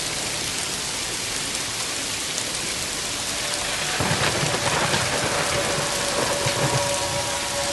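Steady heavy rain, with a low rumble of thunder building from about halfway through. A held tone at several pitches comes in near the end.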